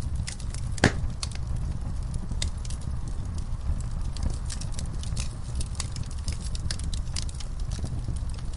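Log fire burning in a fireplace: a steady low rumble of flame under frequent sharp crackles and pops from the burning wood, one loud pop about a second in.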